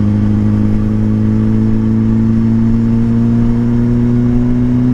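Motorcycle engine pulling steadily in one gear, its pitch rising slowly as it gains speed, heard from the rider's seat.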